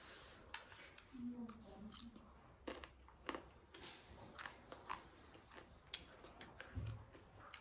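Quiet, close-miked chewing of a mouthful of noodles and rice, heard as irregular soft wet mouth clicks and smacks.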